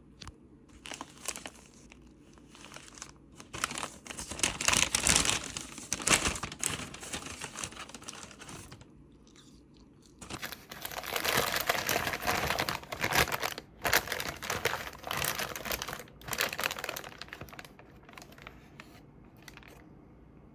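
Crinkling and rustling of something being handled, in two spells of several seconds each with short breaks between.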